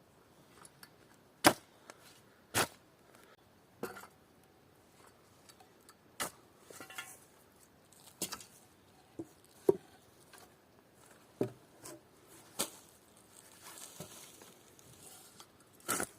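Sharp, irregular knocks of wood being struck during rough carpentry, about a dozen spaced a second or two apart. The loudest come about a second and a half in and again near ten seconds.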